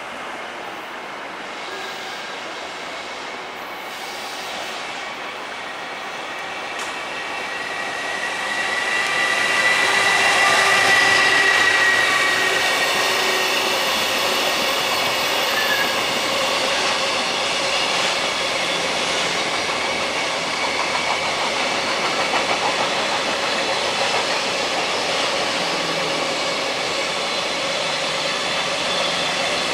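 A JR Freight EF210 electric locomotive hauling a container freight train through the station. It grows louder as the locomotive draws level about ten seconds in, then the long string of container wagons runs past with a steady clatter of wheels.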